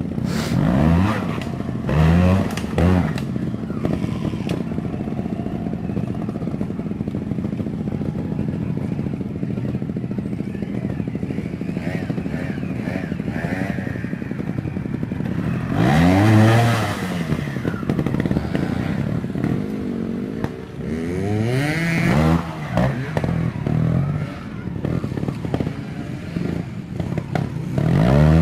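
Trials motorcycle engine idling, then revved in quick throttle blips: a few near the start, one longer rev about halfway through and a run of short blips about three-quarters of the way through.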